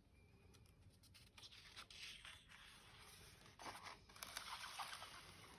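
Faint rustling and soft clicks of a paper page being handled and turned in a picture book.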